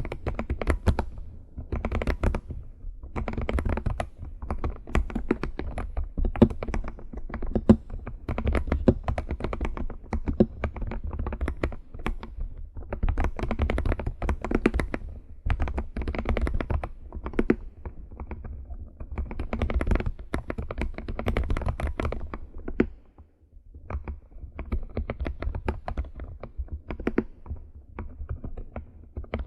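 Fingers tapping and typing on a computer keyboard, keys clicking in quick runs with short pauses between, a brief lull about 23 seconds in.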